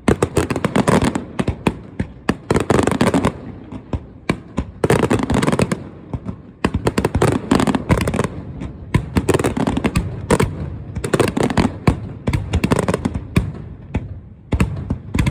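Fireworks going off in rapid volleys: many sharp bangs and crackles in overlapping clusters, with a few brief lulls between bursts.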